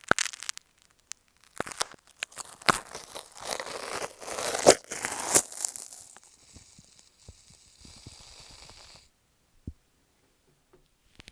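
Close-up crackling and scratching handling noise on an earphone microphone. It is followed, about six and a half seconds in, by roughly two and a half seconds of steady hiss from a shaving cream aerosol can dispensing foam.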